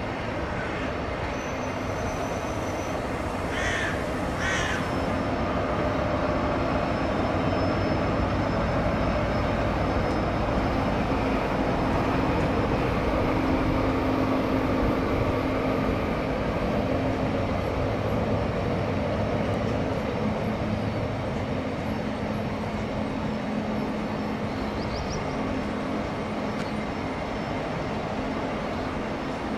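ÖBB CityShuttle passenger train rolling along a far track, a steady rumble with a low hum that grows louder in the middle and then eases off. Two short sharp sounds stand out about four seconds in.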